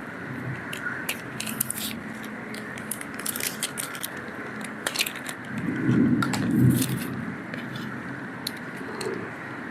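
Scattered crackles and clicks of food and its wrapping being handled and eaten, over a steady background hum, with a louder muffled rumble about six seconds in.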